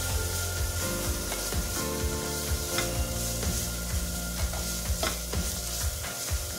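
Boiled corn kernels sizzling in oil in a non-stick kadai while a slotted spatula stirs and tosses them, with scattered clicks and scrapes of the spatula on the pan. Soft background music plays underneath.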